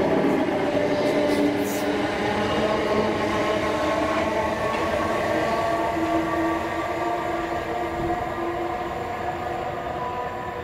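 Passenger train running through a station, its drive giving a sustained hum of several steady tones over track noise, slowly fading.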